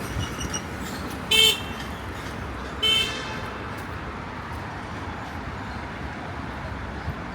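A vehicle horn honks twice in short toots about a second and a half apart, over steady street traffic noise.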